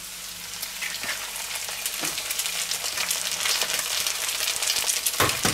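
Bread dumpling cubes, bacon and onions sizzling and crackling in butter in a frying pan, with a raw egg just dropped in to fry. One sharp knock near the end.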